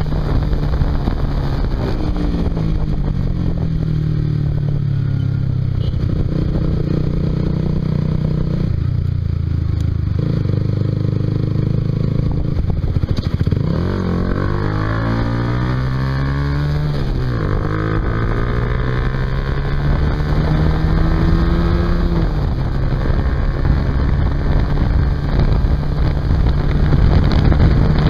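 Honda CBR150R's single-cylinder engine running through a Yoshimura aftermarket exhaust while riding. The revs rise and fall with the throttle and drop suddenly at gear changes, with a long pull about two-thirds of the way in that cuts off at an upshift.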